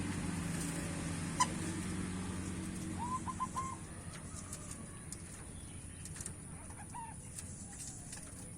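Zebra dove (perkutut) cooing, with a quick run of three short notes about three seconds in and a single note near seven seconds. A low steady hum fades out about four seconds in, and there is a sharp click about one and a half seconds in.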